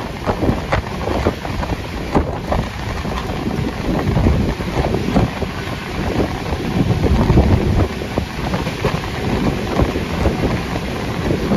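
Wind buffeting the microphone at the window of the moving Vivek Express passenger train, over the rumble of the train running.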